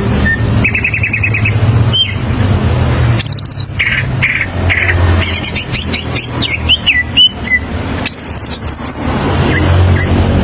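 Cucak ijo (greater green leafbird) singing its varied song: a quick trill in the first second or so, then from about three seconds in a burst of rapid trills, sharp chips and gliding whistles that stops about a second before the end. A steady low hum runs underneath.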